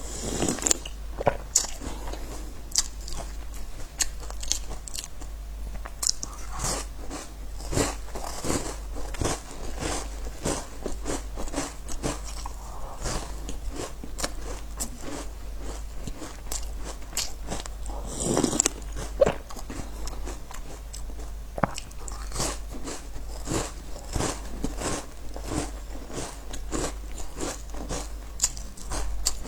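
Close-miked biting and chewing of crunchy biscuits: irregular crisp cracks and crunches, with several louder bites, over a faint low steady hum.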